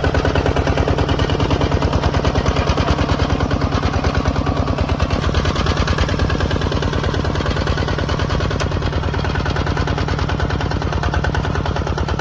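ZT155 Pro tractor engine running steadily with a rapid, even chugging beat.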